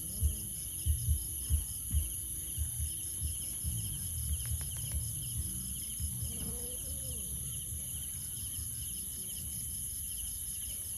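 Steady insect chorus, crickets trilling with a fast, even pulse. A run of low, soft thumps sounds over it in the first few seconds.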